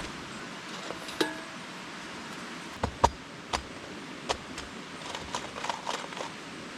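Metal camp cookware clinking and knocking: one ringing clink about a second in, a few sharp knocks around three to four seconds, then a quick run of small clicks, over a steady background hiss.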